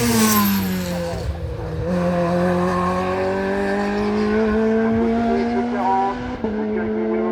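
Hill-climb race car going past, its engine note falling as it passes, then pulling away with the engine pitch climbing steadily and a gear change about six and a half seconds in.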